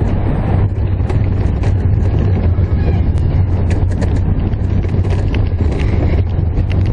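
Steel roller coaster train running along its track, with wind buffeting the microphone and a steady scatter of rattles and clicks from the cars.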